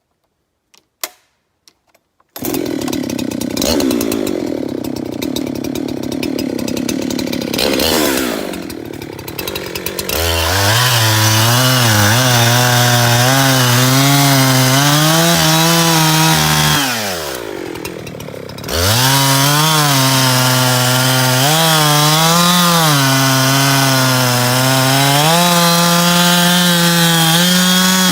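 Chainsaw with a freshly fitted chain, silent but for a few faint clicks, then running loudly from about two seconds in, sawing firewood with its engine note rising and falling under load. Around two-thirds of the way through the engine speed drops sharply and then picks back up.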